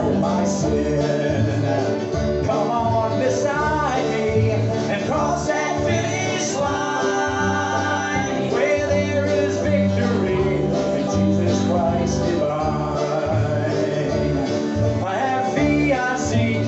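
Live gospel music in a country-bluegrass style: a group singing over guitar accompaniment.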